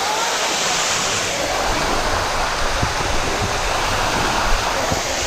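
Steady rush of water running down the Sticky Waterfall cascade over its rock, heard close up, with a few brief low bumps under it.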